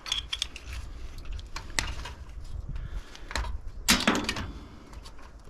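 Metal clinks and clicks of hand tools and scrap parts being handled, with a louder metallic clatter about four seconds in.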